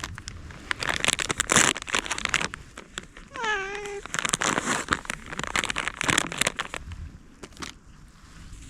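Crinkling and rustling of a packet or wrapper being handled, in repeated bursts. A cat meows once, about three and a half seconds in.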